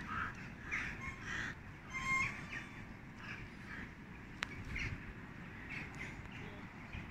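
Birds calling: short, harsh calls repeated irregularly about once a second, over a steady low background rumble.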